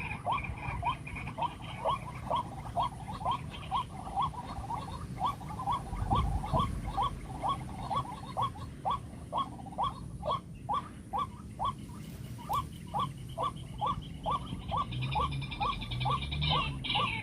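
White-breasted waterhen calling: a steady run of short, sharp, repeated notes, a little over two a second.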